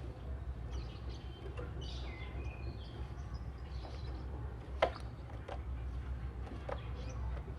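Oriental magpie-robin (kacer) calling in short, scattered chirps and whistles over a steady low rumble, with one sharp click about two-thirds of the way in.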